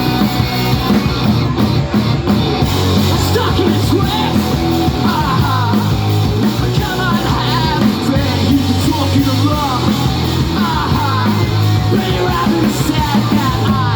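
Rock band playing live and loud, with a wavering high lead line over the full band.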